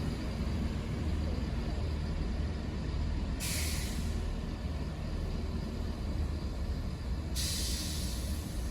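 A diesel multiple unit idling at the platform, with a steady low engine rumble. Compressed air hisses twice, briefly about three and a half seconds in and for longer near the end, as the train readies its air brakes before departing.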